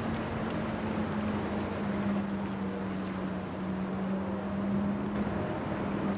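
Inland cargo ship's diesel engine running under way, a steady hum over a wash of wind noise.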